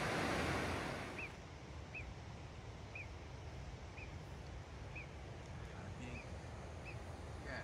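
A rushing mountain stream that fades out about a second in, then a bird's short high call repeated about once a second.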